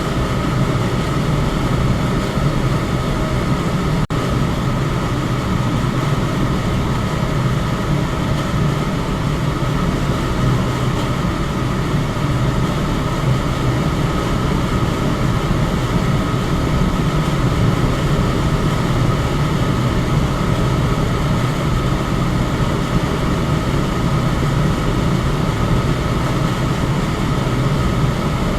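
Electric fan running steadily: a constant low whoosh of air with a faint steady hum above it. About four seconds in, the sound dips for a split second.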